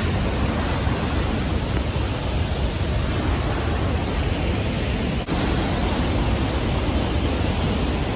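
Steady rushing noise of a nearby waterfall, with a brief break about five seconds in.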